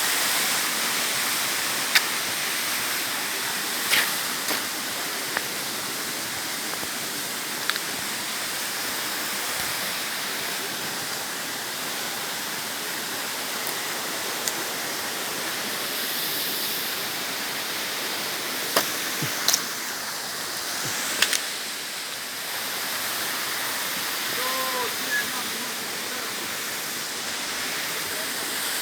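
Steady rush of water from the river's waterfall. A handful of sharp clicks and knocks stand out here and there.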